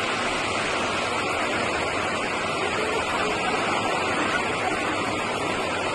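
Steady rushing of fast-flowing water, an even, unbroken roar.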